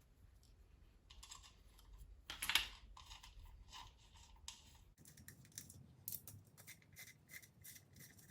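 Faint, scattered light clicks and scrapes of small metal parts and hand tools being handled on an engine block.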